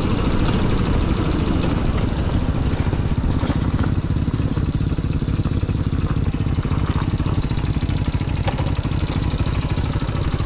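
Motorcycle engine running steadily under way, a dense low pulsing rumble, with a few light clicks over it.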